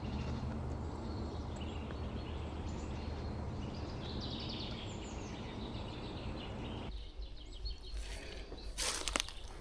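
Small birds chirping over a steady background rumble. About seven seconds in the rumble cuts off abruptly, and near the end come a few short, sharp knocks.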